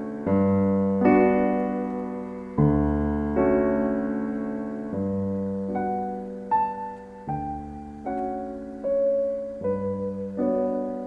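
Slow solo piano music: a low bass note, then a held chord, about every two and a half seconds, with a gentle melody of single notes entering about halfway through.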